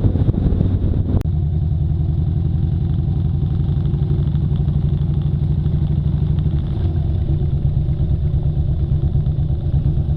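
Motorcycle engine idling with a steady, even pulse. About a second in, a noisy wind-like rush cuts off with a click just before the idle settles.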